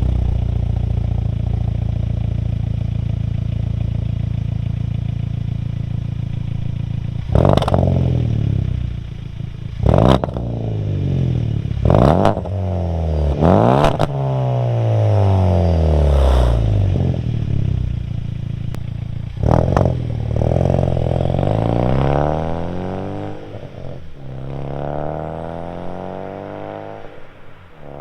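Hyundai Elantra Sport's 1.6-litre turbo four-cylinder through a catless downpipe, 2.5-inch midpipe, resonator and stainless axle-back, idling steadily just after starting. From about seven seconds in it is revved in a series of quick blips, each falling back toward idle, with a longer run of revs near the end.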